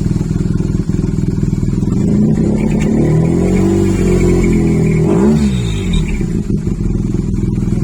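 BMW R1200GS boxer-twin engine running through an aftermarket GRmoto carbon exhaust can: idling, then revved up for a few seconds with a quick extra blip, then dropping back to a steady idle.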